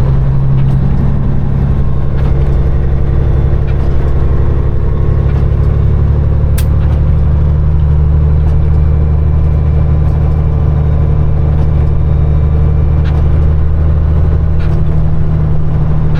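Peterbilt 389 semi truck's diesel engine running at a steady cruise, a constant low drone, with one sharp click about six and a half seconds in.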